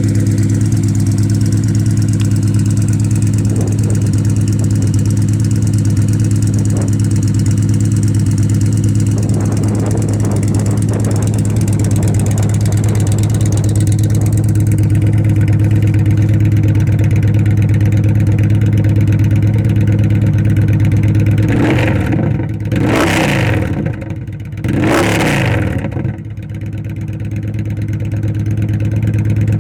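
2011 Victory Vision Tour's 106-cubic-inch V-twin idling steadily through D&D exhaust with the baffles taken out, with two quick revs of the throttle near the end.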